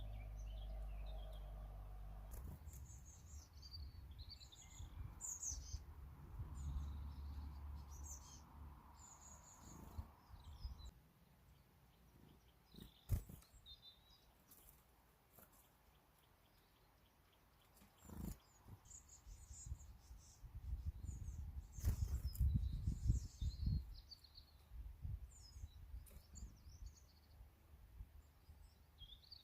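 Small birds chirping and twittering in short high calls, scattered throughout, over low bumps and rumbling with a few sharp knocks.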